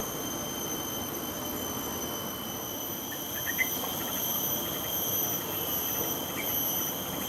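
Steady, high-pitched insect chorus, with several shrill tones held throughout. A few faint, short bird notes come in about halfway through and again near the end.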